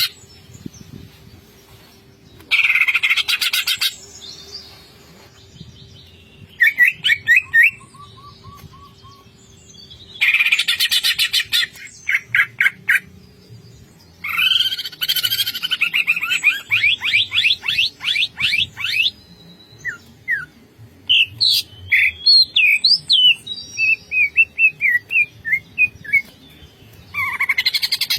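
Cucak ijo (greater green leafbird) singing in the 'ngentrok' style: bursts of rapid rattling trills and scratchy phrases separated by short pauses. In the second half it switches to a run of short, clear whistled notes. A faint steady hum sits underneath.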